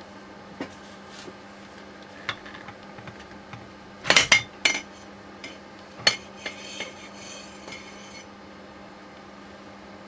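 Metal parts and hand tools clinking and knocking while a steering rack is taken apart. A few small clicks, then a loud cluster of sharp clinks about four seconds in and another strike with a brief ring about six seconds in.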